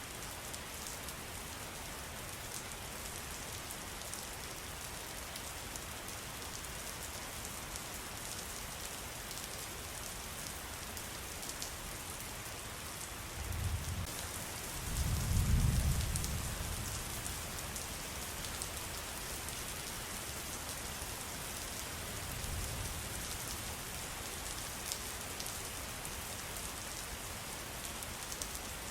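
Steady rain pattering on surfaces, a dense hiss of fine drops. About halfway through, two low rumbles swell up, the second the loudest sound, with a fainter one a little later.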